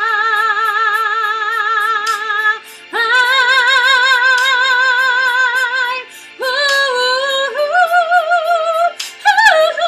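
Solo female voice singing a pop ballad over a backing track, holding two long notes with wide, even vibrato, each about three seconds. Shorter notes follow, then a quick run of notes near the end.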